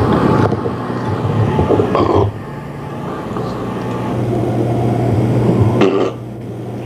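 Dog burping: two long, low, drawn-out burps, the first breaking off about two seconds in and the second building up and cutting off near the end.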